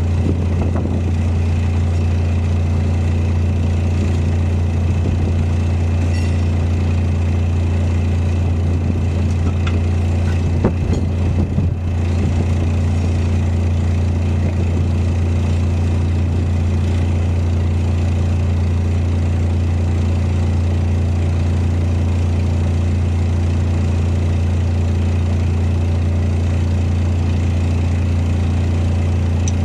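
Heavy diesel engine idling steadily with a deep, constant hum. A few knocks sound around ten to twelve seconds in.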